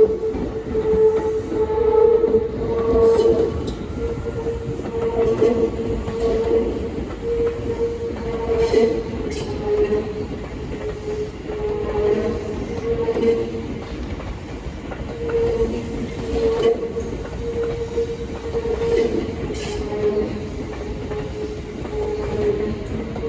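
Tobu Tojo Line electric train running, with a steady mid-pitched whine and occasional sharp clicks from the wheels.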